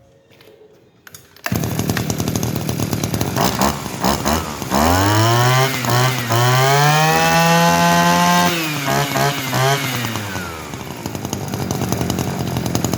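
Mitsubishi T180 small two-stroke engine with a 36 mm cylinder starting up abruptly about a second and a half in, then revved: its pitch climbs steeply, holds high for a few seconds and falls back to a lower speed before rising slightly again.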